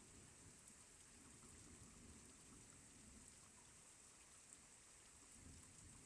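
Faint, steady rain falling during a thunderstorm, with scattered small drip ticks.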